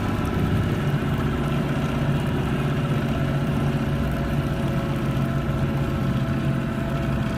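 Fishing boat's engine running steadily with an even hum.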